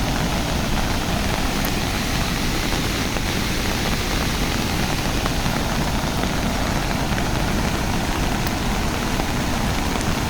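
Steady, even rushing noise with no rhythm or distinct events.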